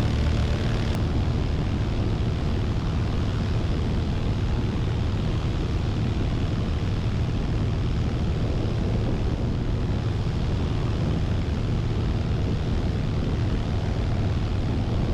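Van's RV-9A's engine and propeller droning steadily, heard from inside the cockpit.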